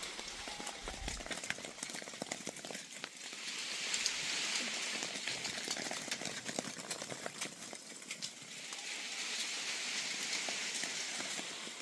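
Rushing, splashing water with a hiss that swells and fades twice, with scattered small clicks and patters.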